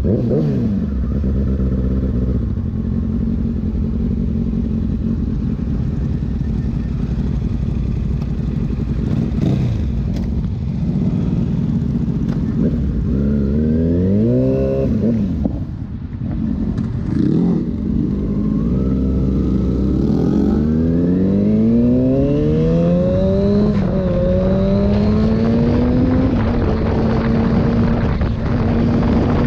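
Motorcycle engine under way, running at a steady pitch and then easing off and picking up again. About two-thirds through it accelerates hard, the revs climbing and dropping back several times in quick succession as it shifts up through the gears, then holds a steady high pitch.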